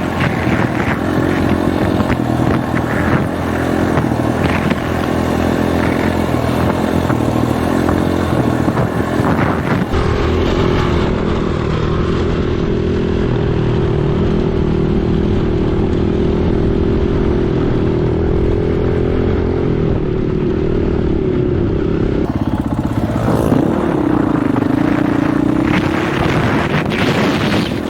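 Husqvarna 501 dirt bike's single-cylinder four-stroke engine running under way, with heavy wind buffeting on a microphone that has lost its wind sock. About ten seconds in the engine settles to a steady held note for some twelve seconds, then the revs drop and rise again.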